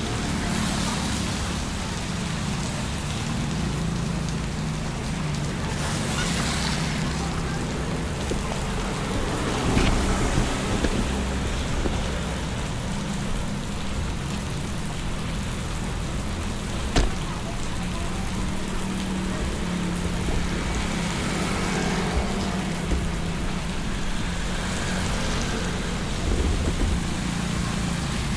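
Steady rain and water noise over a low, steady engine hum, with a few sharp knocks, the loudest about two-thirds of the way through.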